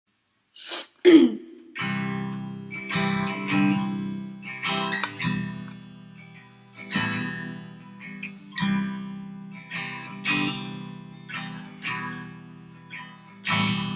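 Guitar music: chords strummed slowly, one every second or so, each left to ring and fade. Two short sounds come just before the first chord.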